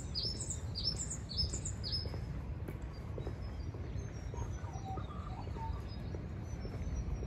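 Small birds chirping: a quick run of high notes, each dropping in pitch, about two a second for the first two seconds, then fainter scattered calls, over a steady low rumble.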